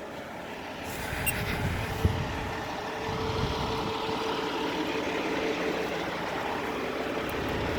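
Drain valve open on a vacuum tanker's scrubber pot, with the collected water and muck running out in a steady rushing noise that builds over the first couple of seconds. A faint steady hum runs through the middle, and there are a couple of small knocks early on.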